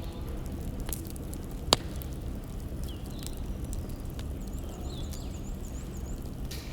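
Wood fire crackling: a steady low rumble of burning logs with scattered sharp pops, the loudest about a second and a half in. Faint high chirping comes and goes through the middle.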